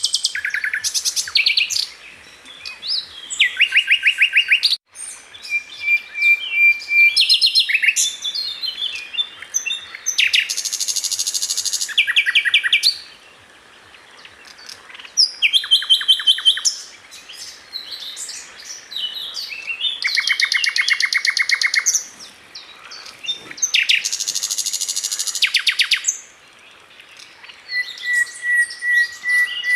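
A sikatan londo (flycatcher) singing in loud bursts of very rapid, chattering note series, a second or two long, with short pauses between, and a few brief steady whistled notes mixed in.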